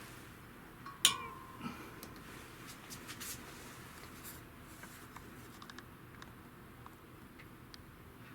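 Metal parts being handled: a sharp clink with a brief ringing tone about a second in, followed by light taps and rustles.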